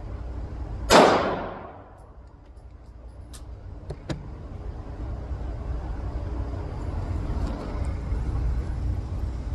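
A single Glock pistol shot about a second in, ringing out and dying away over most of a second in the indoor range, followed by a couple of faint clicks.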